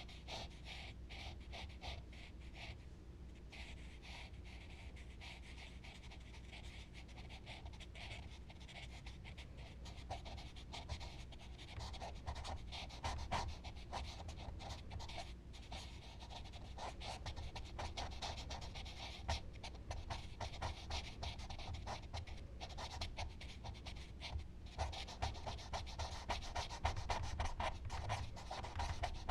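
Charcoal rubbing and scratching on paper in quick, repeated strokes, growing busier and louder in the second half.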